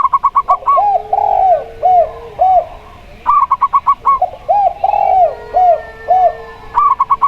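Zebra dove and spotted dove cooing in repeated phrases, each a quick run of about eight short notes followed by a few slower, rounder coos. A new phrase starts about every three and a half seconds.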